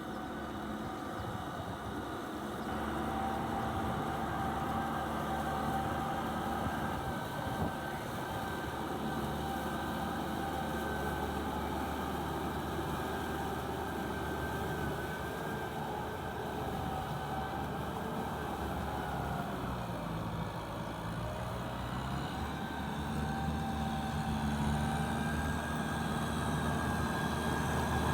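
Kubota farm tractor's diesel engine running steadily under plowing load. The engine note sags briefly about two-thirds of the way through, then recovers, and grows louder toward the end.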